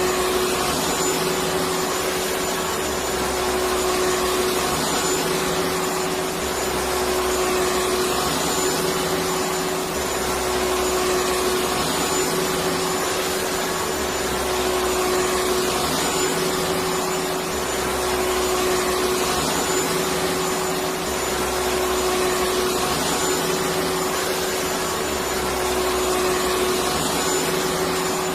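Electric vacuum cleaner running steadily: an even rushing noise with a constant whine, and a low hum that swells and fades about every two and a half seconds.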